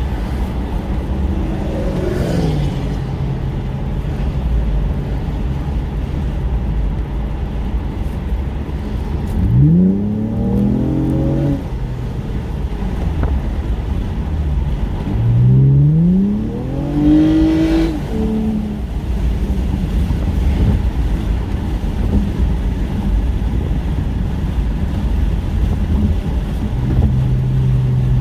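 Car engine under way with a steady low rumble, revving up hard twice, its pitch climbing steeply about ten seconds in and again about sixteen seconds in before dropping back.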